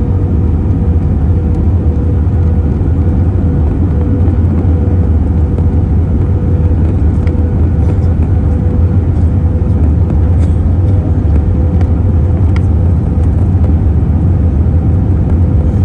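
Airbus A320 cabin noise: a steady low roar of engines and airflow with a constant mid-pitched hum, and a few faint ticks.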